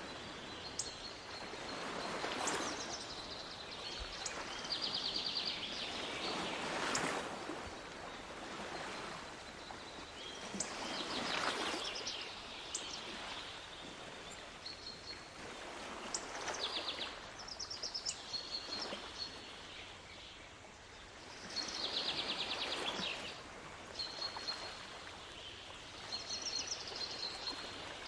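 Small waves washing in and drawing back, swelling about every four to five seconds, while songbirds call over them with short high whistles and quick trills.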